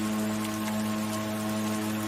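Meditation drone music: a steady, unchanging chord of held tones, including a high tone near 963 Hz, over a soft patter of rain.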